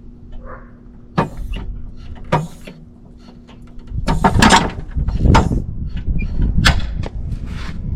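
Metal clunks and rattles as the freshly removed engine and transmission are lowered: two sharp knocks, then a louder run of several hard clanks about halfway through.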